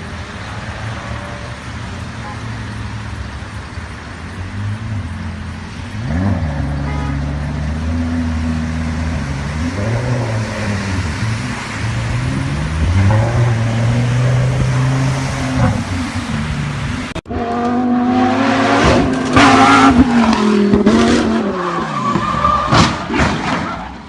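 Engine of a white Lamborghini revving up and down in surges as it ploughs through deep flood water. About 17 seconds in, a cut to another car sound, louder and harsher, with tire squeal and several sharp loud cracks.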